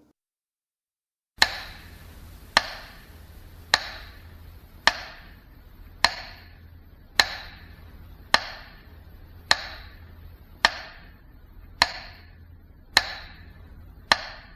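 Slow metronome ticking: twelve sharp, evenly spaced ticks a little over a second apart, each with a short ring, over a faint steady hum, starting after about a second and a half of silence.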